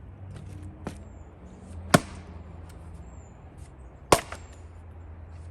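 Axe striking and splitting firewood by hand: two sharp, loud chops about two seconds apart, with a lighter knock about a second in.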